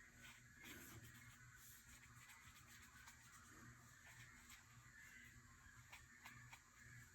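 Faint chattering of many birds at their roost, coming in through an open patio door as scattered short calls, over a low steady hum.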